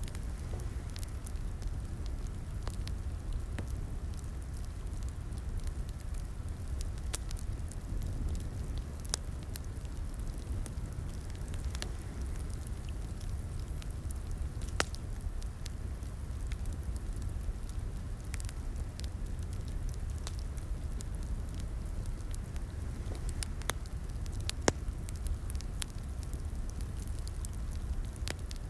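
Fireplace wood fire crackling: a steady low rumble of flames with irregular sharp pops and snaps, the loudest about 15 and 24 seconds in.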